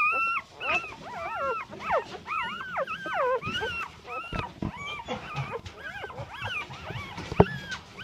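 Several Labrador puppies whining and whimpering at once, a steady overlapping chorus of short, high, bending cries.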